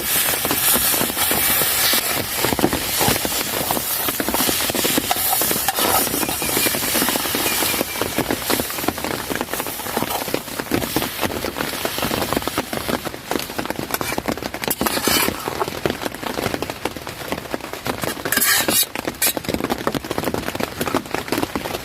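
Heavy rain falling on a tent, a dense patter of drops that goes on without a break. There are a couple of brief louder surges of hiss late on.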